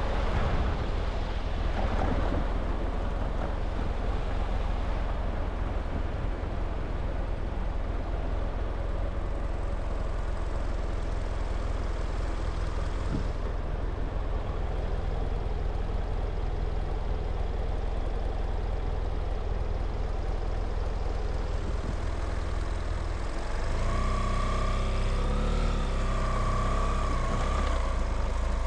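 Steady vehicle engine and road noise while travelling, with a low rumble throughout. A louder engine note with a whine joins about 24 seconds in.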